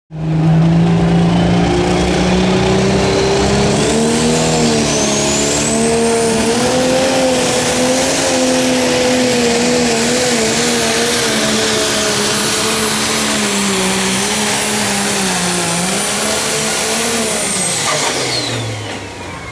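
Pro Stock pulling tractor's turbocharged diesel engine running flat out under the load of the sled during a pull, its engine note climbing and wavering, with a high turbo whine that rises over the first several seconds and then holds. Near the end the engine and whine drop away as the pass finishes.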